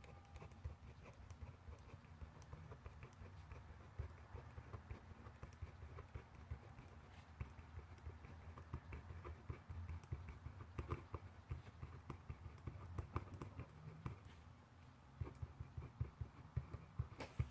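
Handwriting on paper: a pen or pencil scratching and tapping in quick, irregular strokes, with a louder tap near the end.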